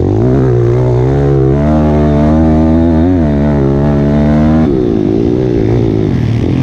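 Dirt bike engine revving under throttle. The revs rise, hold steady for a few seconds, then drop off suddenly about two-thirds of the way through before rising and falling again.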